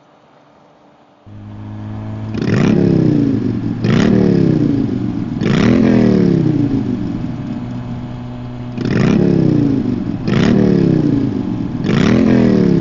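Phone ringtone played through a Sena 50C Bluetooth motorcycle headset, signalling an incoming call. A steady tone comes in about a second in, then a falling chime repeats about every second and a half, three times, a short pause, and three times more.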